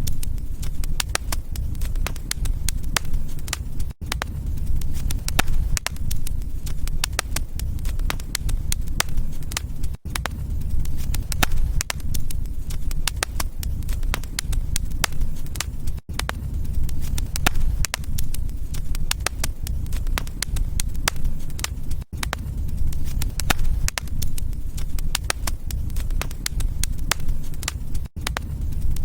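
Wood fire crackling, with many sharp snaps over a steady low rumble of the flames. There is a brief dropout about every six seconds.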